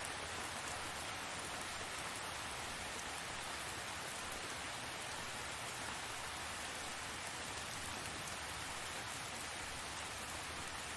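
Steady heavy rain falling, an even hiss of drops with faint scattered ticks of individual drops.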